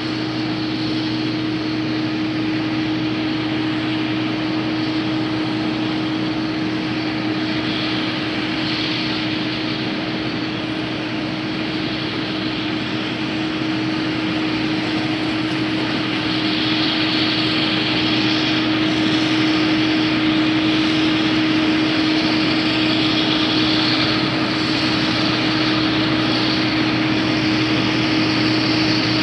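IH 2577 rotary combine running steadily while harvesting wheat, a constant engine hum over the noise of the machine at work; it gets somewhat louder about halfway through.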